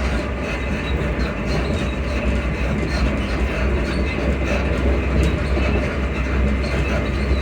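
Class 334 electric multiple unit running at speed, heard from inside the carriage: a steady deep rumble with wheels clattering over the rail joints.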